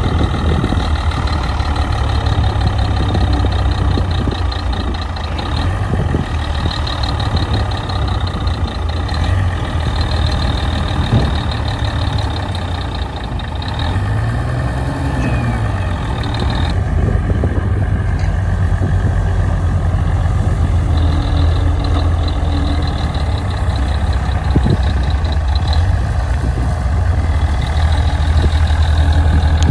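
Bulldozer's diesel engine running steadily under work, with a strong low hum; about halfway through it briefly rises and falls in pitch.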